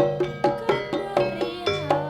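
Javanese jaranan campursari band music: struck percussion with ringing pitched notes, about four strokes a second, over a low held tone.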